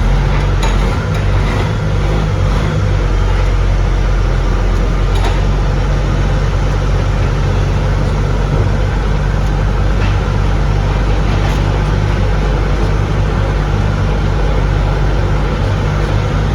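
Heavy diesel engine running steadily at a constant speed, with a few faint clicks over it.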